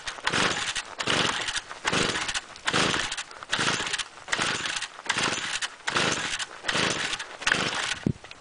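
Stihl FS-45 string trimmer's small two-stroke engine being cranked over and over with its recoil starter cord, about two pulls a second, without catching: a cold start attempt at 0°F.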